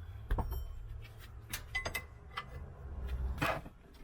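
Scattered metallic clinks and knocks of tools and parts being handled during work on a car, with a low rumble underneath.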